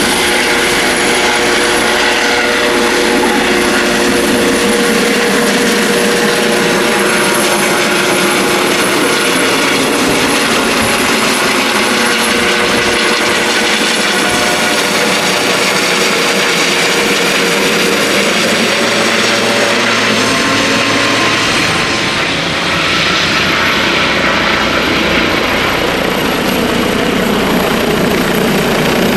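Twin-turbine helicopter running, a steady turbine whine over the rotor noise. About two-thirds of the way in, its tones sag in pitch and rise again.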